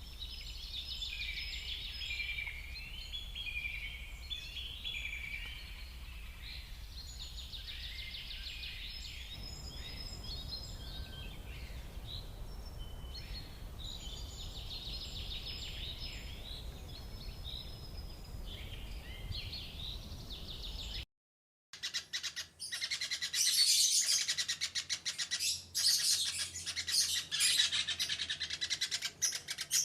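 Songbirds singing: repeated short warbling phrases over a steady low hum. After a brief break about 21 s in, louder, rapid, dense chirping and chattering follows.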